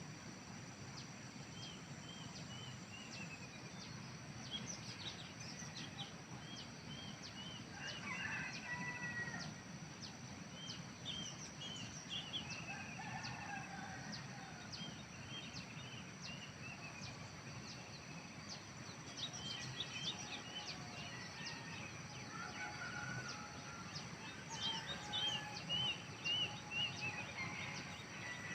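Birds chirping at a low level in many short, quick notes, some in falling runs, against a faint steady background with a thin high whine.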